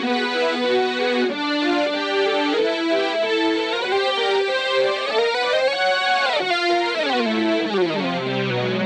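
Boss SY-1 synthesizer pedal on a strings patch, played from an electric guitar: sustained synth notes moving from pitch to pitch, with a slide up about five seconds in and a long slide down near the end.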